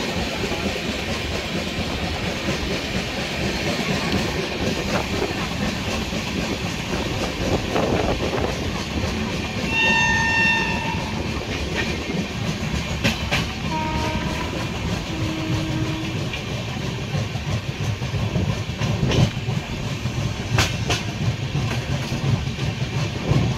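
Passenger train running, heard from on board: steady rumble and wheels clattering over rail joints and points, with sharp clicks near the end. A train horn sounds for about a second around ten seconds in, with fainter, lower horn notes a few seconds later.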